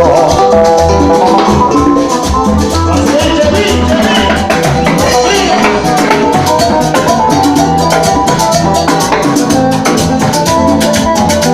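Live Latin band playing an instrumental passage of a rumba/son, with maracas and drums keeping a steady beat under pitched instrument lines.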